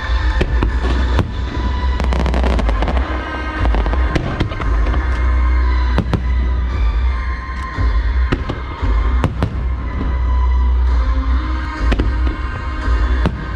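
Aerial fireworks bursting in a busy string of sharp bangs and crackles, over music played along with the show, with a steady deep rumble underneath.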